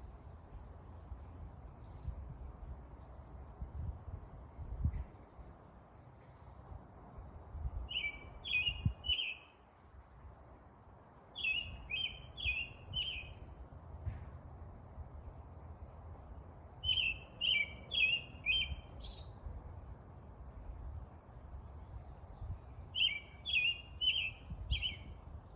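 Backyard birds singing: one bird repeats a short phrase of four or five quick notes four times, about every five or six seconds, over a run of high, thin chips from another bird. A low rumble runs underneath.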